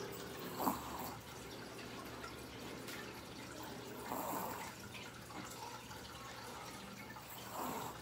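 A sleeping dog snoring faintly: three short snores about three and a half seconds apart.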